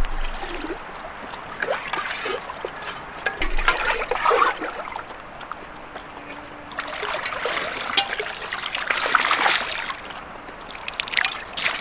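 Water splashing and trickling in uneven spells, with small sharp splashes among them.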